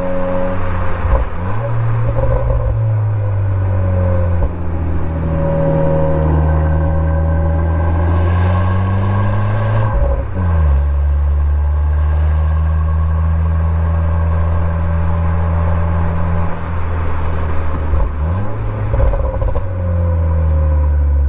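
Exhaust note of a 2022 Honda Civic FL1's 1.5-litre turbocharged four-cylinder through a Mugen sports exhaust, heard close to the muffler. The note climbs slowly, falls sharply about ten seconds in, holds steady for several seconds, then dips and climbs again near the end, as with gear changes on a manual car under way.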